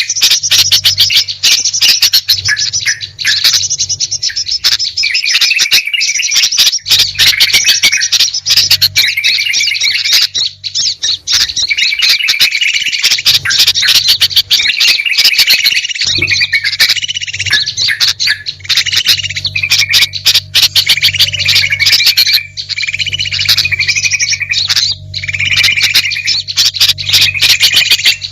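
Bird-lure recording of many small songbirds chirping and calling at once, a dense, unbroken chorus of rapid high chirps and trills, with a low hum underneath that comes and goes.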